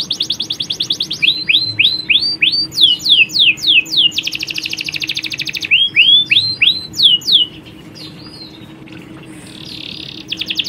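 Domestic canaries singing: fast rolling trills and quick down-slurred whistled notes, with a dense buzzy trill in the middle. The song drops away to a faint background for a few seconds near the end, then the trills start again.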